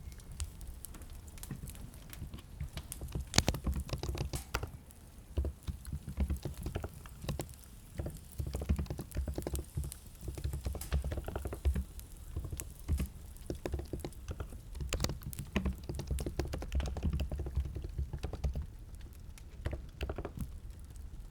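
Computer keyboard typing: quick, irregular runs of key clicks, one keystroke a few seconds in noticeably louder than the rest.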